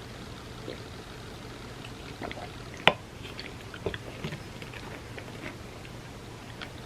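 Close-up wet eating sounds of milk-soaked chocolate cake being chewed and slurped: many small wet clicks. There is one sharp, much louder click about three seconds in.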